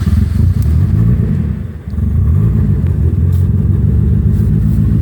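Ford Escort RS Turbo's 1.6-litre turbocharged CVH four-cylinder engine running just after starting, with a short dip in level a little under two seconds in, then idling steadily.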